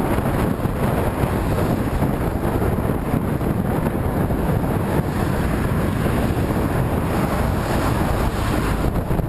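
Strong headwind buffeting the microphone of a camera on the move, a steady low rumbling rush of wind noise.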